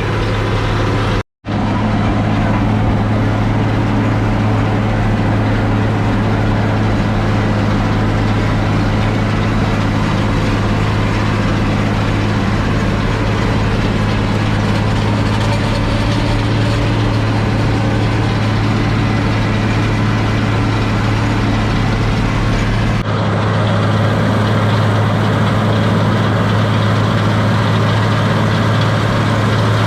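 International 1086 tractor's six-cylinder turbo diesel running steadily under load, heard from inside the cab while mowing hay. It is a steady drone, broken by a split-second gap just after the start, with a slight change in tone about 23 seconds in.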